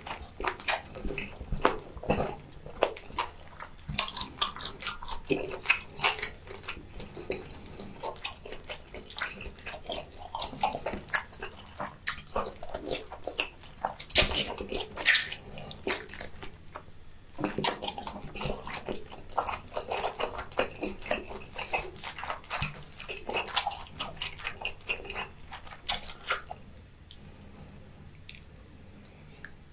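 Close-miked wet chewing of chewy boiled seafood tentacles: a steady stream of sticky smacks and short clicks from the mouth. The sounds thin out and turn quieter near the end.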